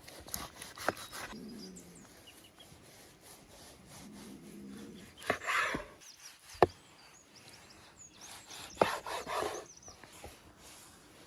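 Food preparation on a wooden surface: a few sharp knocks with short spells of scraping or rubbing after two of them.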